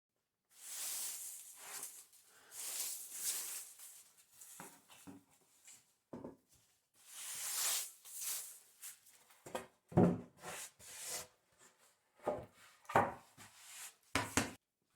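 Hand woodworking on wooden boards: a few long scraping strokes, each about a second, then several sharp knocks of wood on wood.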